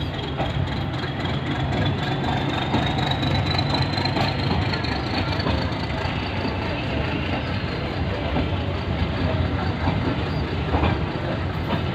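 Passenger train running, a steady rumble with some clickety-clack and a faint high whine that rises slowly over the first few seconds.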